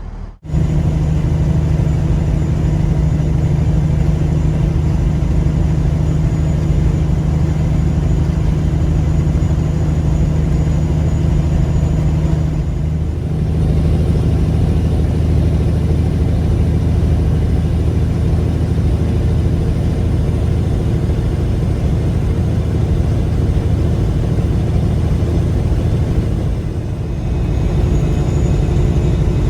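Peterbilt 359 dump truck's diesel engine running steadily under way. Its pitch changes about a third of the way in, and the level dips briefly near the end.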